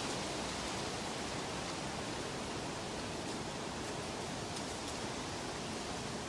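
Steady, even rushing noise with no tones, rhythm or distinct events, a continuous nature-sound ambience.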